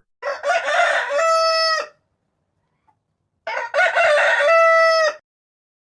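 Rooster crowing twice, cock-a-doodle-doo, each crow a rough opening that settles into a long held note; the second crow comes about three and a half seconds in.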